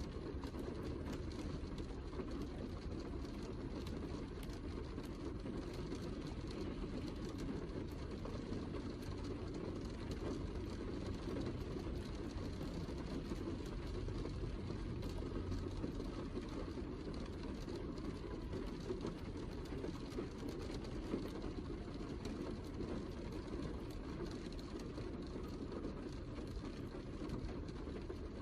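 Heavy rain falling steadily: a dense patter of drops over a low rumble.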